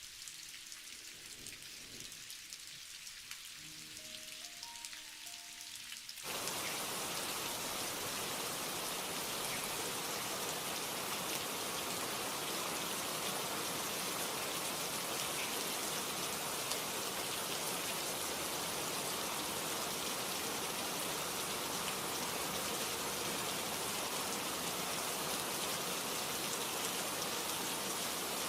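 Rain falling steadily, light at first with a few faint, soft tones stepping upward, then turning abruptly louder and heavier about six seconds in, with a dense, even patter for the rest.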